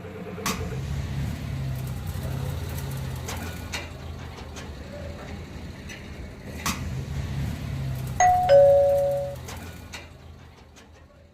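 A two-note falling chime, ding-dong like a doorbell, about eight seconds in. Under it are a steady low hum and scattered clicks, and everything fades out near the end.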